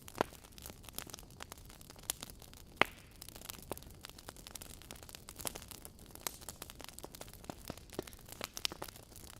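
Wood fire burning in a fireplace, logs crackling with irregular sharp pops and snaps over a faint steady hiss; two pops stand out, one just after the start and a louder one about three seconds in.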